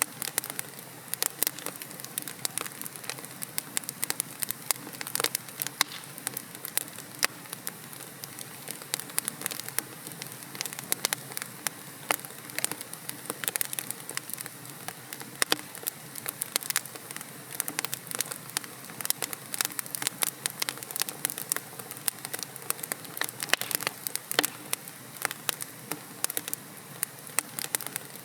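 Wood fire crackling in a fireplace: logs burning with a steady soft hiss and frequent sharp, irregular pops and snaps.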